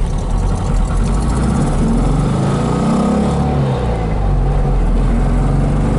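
1965 Porsche 356C's air-cooled flat-four engine pulling the car under acceleration; the engine note breaks briefly about halfway through and then climbs again, a gear change into second.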